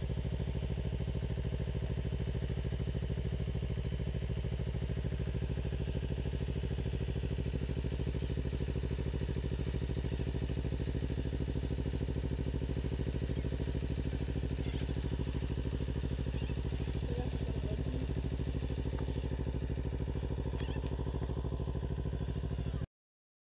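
Kawasaki Ninja 300's parallel-twin engine idling steadily. The sound cuts off suddenly near the end.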